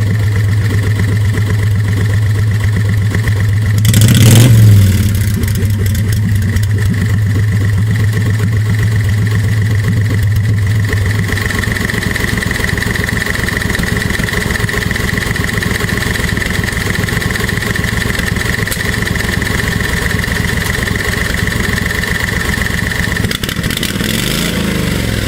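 V-twin engine of a golf cart idling through its header exhaust, blipped to a brief louder rev about four seconds in and revved again near the end.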